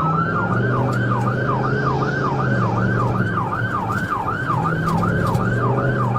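Police car siren in yelp mode, sweeping rapidly up and down about four times a second, over a steady low hum.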